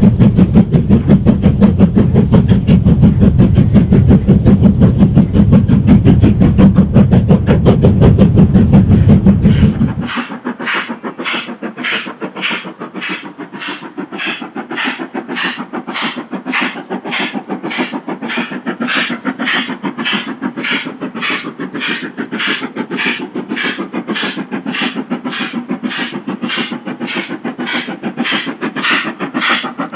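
A steam locomotive working hard on a steep climb. For about ten seconds it is close and loud with a heavy low rumble. Then, after an abrupt change, slow, even exhaust beats come a little under two a second, the sound of a locomotive labouring.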